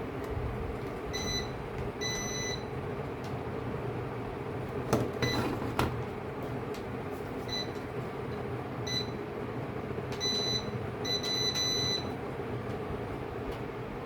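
Short high-pitched electronic beeps, some single and some in quick runs, over a steady hum, with a cluster of clicks about five seconds in.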